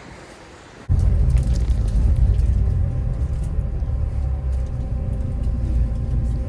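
Steady low rumble of a bus's engine and running gear heard from inside the cabin, starting abruptly about a second in.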